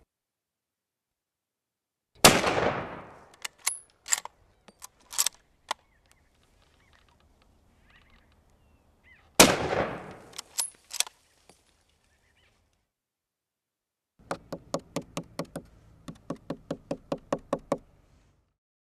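Two rifle shots about seven seconds apart, each ringing out with a long decaying echo and followed by a few sharp metallic clicks. Near the end comes a quick, even run of about five knocks a second for some four seconds.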